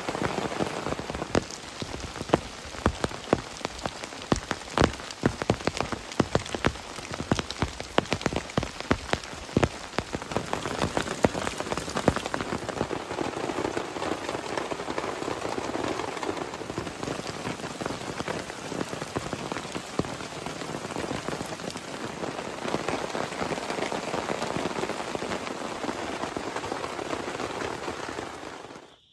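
Heavy rain falling, with many sharp individual drops hitting a surface close by in the first half, settling into a steadier, denser patter later.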